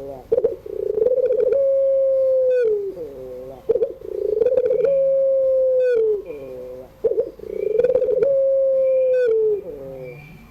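Puter pelung (long-voiced ringneck dove) cooing three times, about three and a half seconds apart. Each coo is a rolling, quavering part, then a long held note that drops away at the end.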